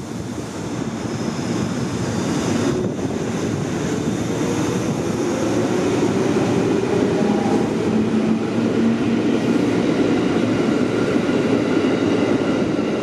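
Electric commuter train pulling out along the platform and picking up speed. Its wheels and running gear rumble on the rails while a faint motor whine rises in pitch, and the sound grows louder over the first several seconds.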